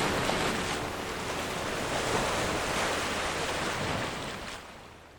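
Sea waves washing with wind noise, fading out near the end.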